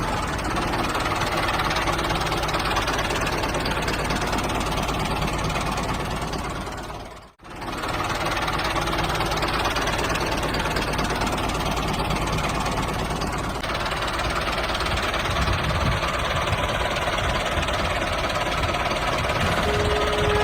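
A small engine-like machine running steadily with a fast chugging rhythm. The sound drops out briefly about seven seconds in, and music starts near the end.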